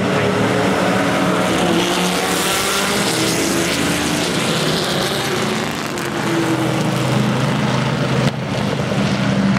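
Historic sports-prototype racing car engines running together, a loud mix of engine notes, some rising and falling in pitch as cars rev and pass.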